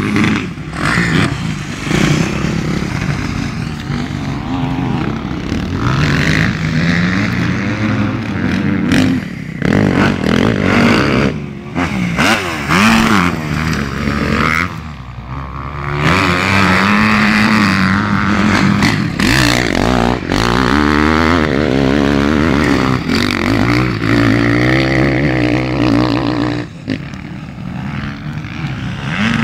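Motocross dirt-bike engine noise, revving up and dropping back again and again, with a few short dips where it falls away.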